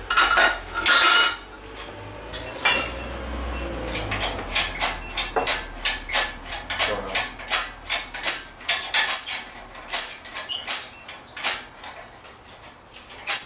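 Metal tools and parts clinking and clanking in a quick, irregular series of sharp knocks, as during hands-on work on a car engine swap.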